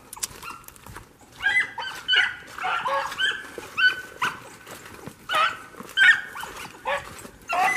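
Rabbit-hunting dogs baying in short, repeated, overlapping yelps as they run a rabbit's scent trail, starting about a second and a half in.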